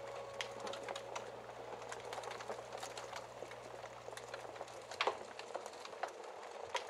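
Wood fire crackling: a steady hiss with scattered sharp pops, the loudest about five seconds in. A held musical note fades out within the first second.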